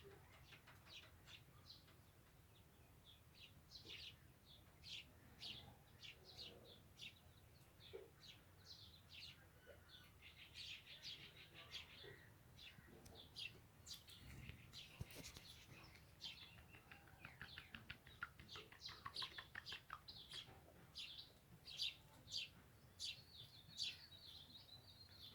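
Small birds chirping faintly: many short, high chirps throughout, with a rapid trill about eighteen seconds in and a held high note near the end.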